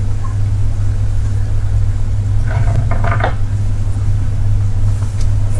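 A steady low hum, with a short burst of higher pitched sound about two and a half seconds in.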